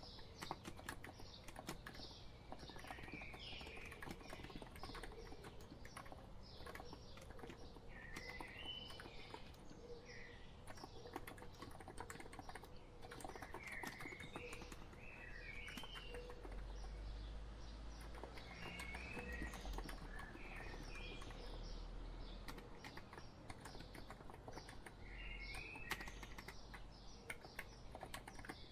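Steady, irregular typing on a COX Empress Living Coral Edition electro-capacitive keyboard, its key strokes soft and quick. Short bird chirp phrases recur every few seconds behind the typing.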